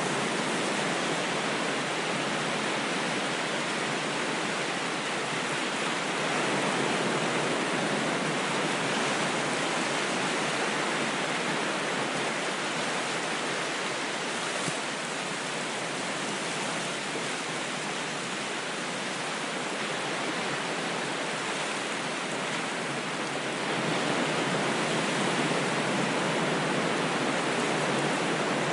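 Ocean waves washing in a steady, even rush, swelling slightly about six seconds in and again near the end.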